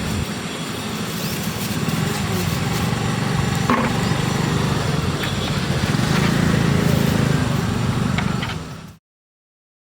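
Roadside traffic noise: vehicle engines, including motorcycles, running steadily with a low rumble and a few faint voices. It cuts off suddenly to silence near the end.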